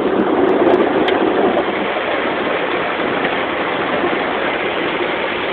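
Automatic car wash heard from inside the car: a steady rushing of water spray against the car's body.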